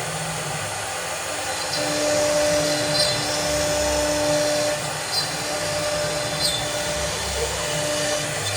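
CNC cutting machine running through a cut, a steady high-speed whine like a power tool, with motor tones that start and stop every second or two.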